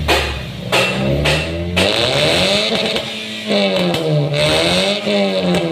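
Toyota Yaris engine revving through a full-system NDK racing exhaust with a DK-01 V2 muffler. From about two seconds in, the pitch rises and falls over and over, about once a second.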